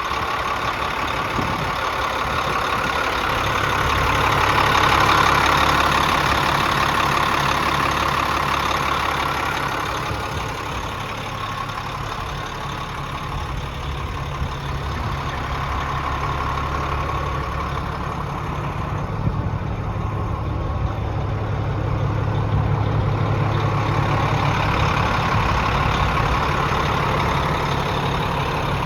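Cummins diesel engine of a 1994 International 8100 truck idling steadily, getting a little louder about five seconds in and again near the end.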